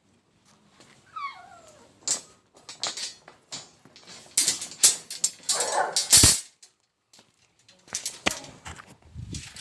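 A dog whining in a few short rising and falling yelps about a second in, followed by a run of sharp knocks and clatter.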